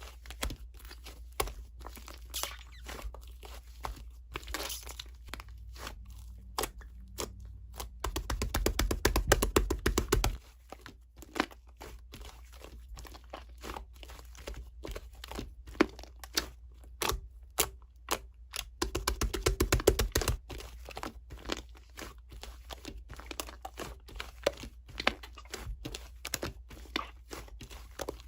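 Sketching strokes scratching on paper, short and scattered, with two stretches of quick back-and-forth shading strokes about 8 and 19 seconds in.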